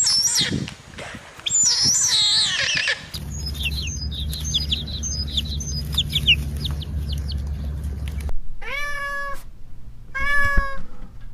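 Cat meowing: several drawn-out meows, with a stretch of quick, high chirps over a low hum in the middle.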